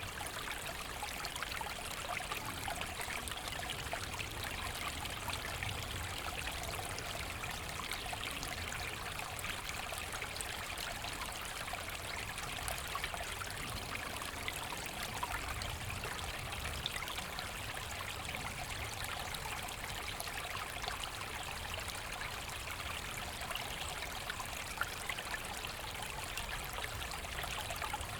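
A small forest brook flowing and trickling steadily over stones, a continuous even babble of running water.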